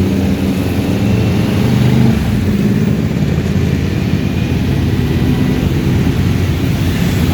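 Many motorcycle engines running together in a steady low rumble, with one engine's pitched note dying away in the first two seconds.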